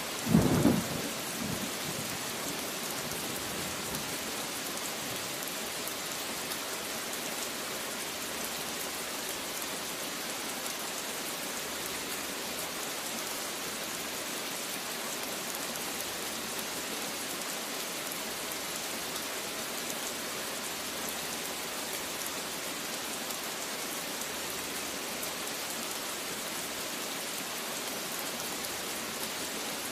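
Steady rain falling, with a short, loud rumble of thunder in the first second or so that dies away within about two seconds.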